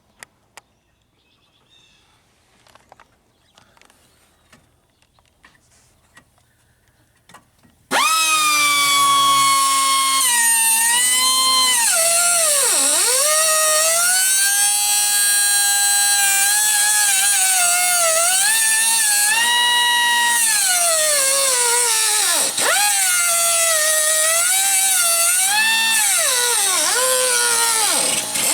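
About eight seconds of faint clicks, then a high-speed power tool starts up suddenly and runs with a loud, steady whine. Its pitch sags and recovers again and again, dropping sharply several times as it bogs under load against the metal. This fits cutting at the seized exhaust manifold stud.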